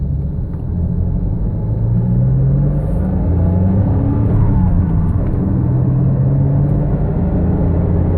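Inside the cabin of a 2004 Porsche Boxster S as it accelerates under throttle, the flat-six engine's pitch climbing gradually over steady road noise. Under throttle the car makes a hollow-sounding noise that was traced to a failing transmission bearing.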